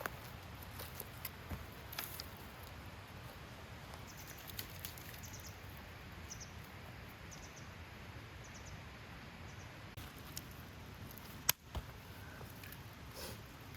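Wood campfire crackling: scattered small pops and clicks over a steady low hiss, with one sharp crack about eleven and a half seconds in.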